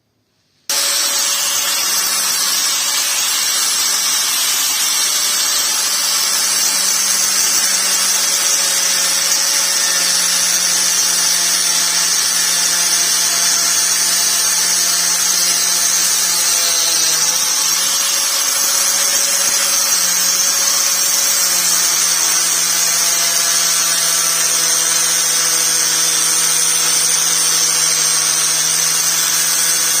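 Angle grinder running steadily. It starts abruptly about a second in with a steady whine, and its pitch sags briefly twice around the middle, as if the disc is loaded.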